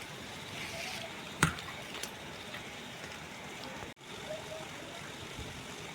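A single sharp knock about a second and a half in, over steady background noise.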